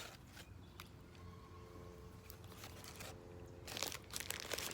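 Faint chewing and crunching of food, with scattered small clicks that come thicker near the end.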